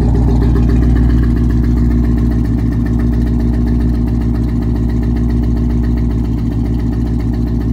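Dodge Charger's 6.4 HEMI V8 idling steadily, heard at the exhaust tips. The owner hears it running better and no longer shaking after a dose of Sea Foam, though he believes a misfire code is still present.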